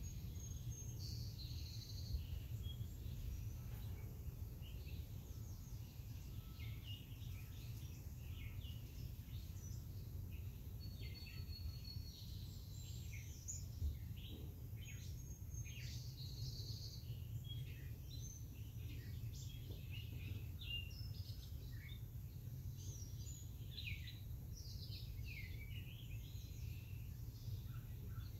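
Songbirds chirping and calling, many short calls one after another, over a steady low rumble.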